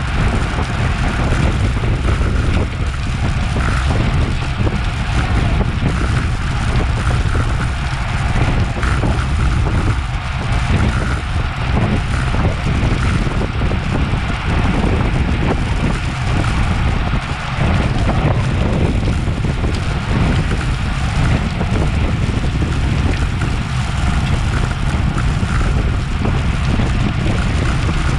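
Wind rushing over a Garmin VIRB action camera's microphone on a bicycle moving at race speed: a steady, heavy low rumble that never lets up.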